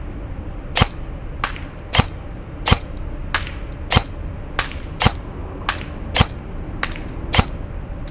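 KWA SR10 airsoft electric rifle firing single shots of 0.3 g BBs in steady succession: sharp cracks about once a second, each louder one followed by a fainter click roughly half a second later.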